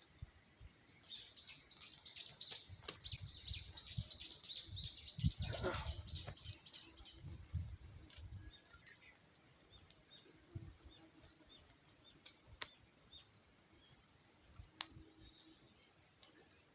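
A bird calling in a quick run of high chirps, about eight a second, for some six seconds, with a low rumble under it. After that come only scattered faint clicks.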